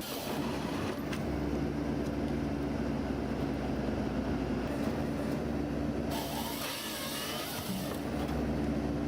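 Diesel engine of a forestry mulching machine running steadily under load, with a brief patch of harsher hissing noise about six seconds in as material goes through the mulcher.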